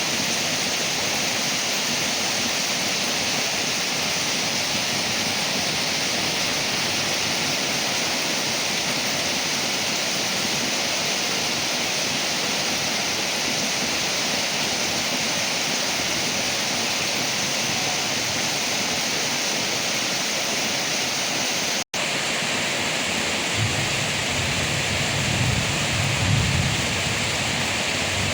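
Steady rain falling on leaves, an even hiss. About twenty-two seconds in the sound drops out for a split second, and near the end a low rumble rises under the rain for a few seconds.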